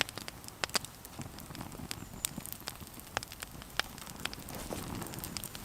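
Wood campfire crackling: irregular sharp pops and snaps over a soft hiss.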